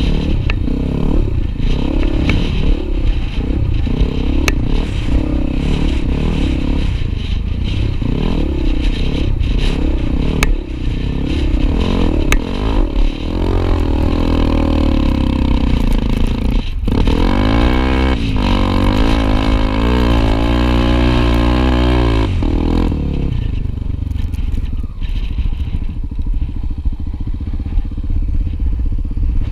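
Honda XR250 Tornado single-cylinder trail motorcycle being ridden, the engine note rising and falling with throttle and gear changes. It dips sharply about 17 seconds in, and settles into a lower, steadier sound for the last few seconds.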